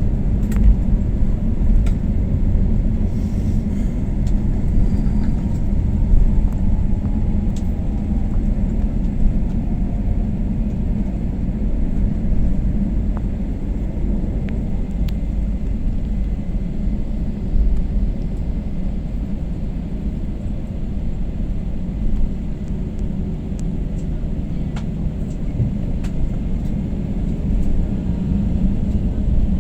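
Airliner landing at an airport: a steady low rumble with a few faint clicks.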